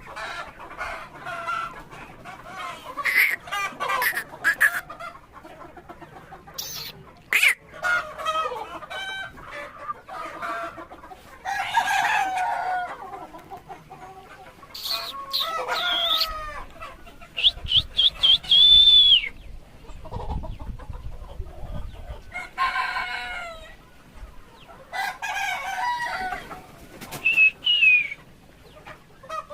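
A flock of young Sonali chickens clucking and calling, with several long high calls that rise and fall; the loudest comes about two-thirds of the way through.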